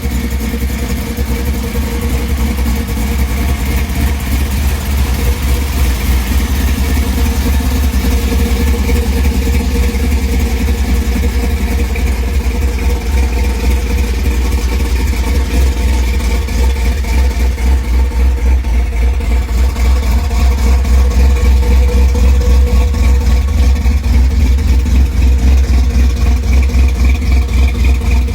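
A 1955 Chevrolet Bel Air's pro-built 350 V8 running at idle, with a deep, fast, even pulse. It gets somewhat louder in the last third.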